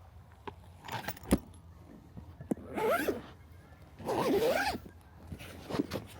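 A bag zipper pulled in several short strokes, with a sharp click about a second in and small gear rattling between strokes.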